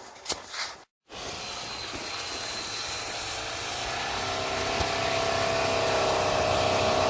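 A car engine straining as the car tries to push through deep snow, growing steadily louder after a brief dropout about a second in, with a pitched engine whine rising in the last few seconds.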